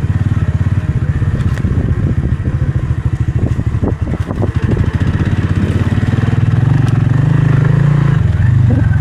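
Motorcycle engine running under way with a steady firing beat, a few short knocks a little before halfway through, and the engine growing a little louder a couple of seconds before the end.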